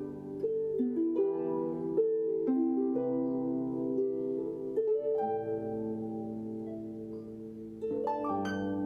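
Two lever harps playing together: plucked notes and chords ringing over one another in a gentle melody, with a brighter, stronger chord near the end.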